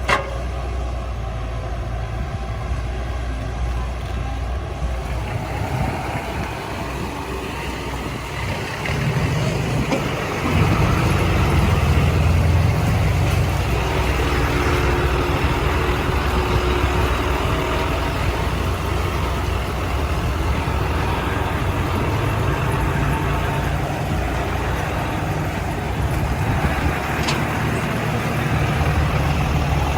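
Heavy diesel earthmoving machinery running steadily, its engine load picking up and growing louder about ten seconds in.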